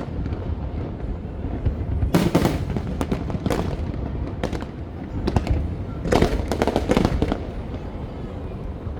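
Aerial fireworks bursting: clusters of sharp crackling bangs about two seconds in and again around six seconds in, over a steady low rumble.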